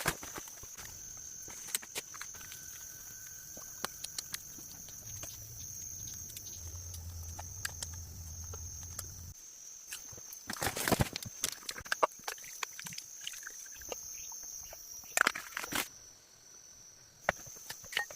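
A steady, high insect drone, with scattered light clicks, knocks and rustles of handling or footsteps, and a louder clatter about eleven seconds in and again near fifteen seconds.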